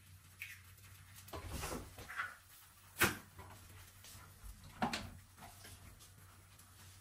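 Household handling noises: a soft rustling thud, then a sharp click about three seconds in, and another knock near five seconds, like a cupboard or drawer being worked.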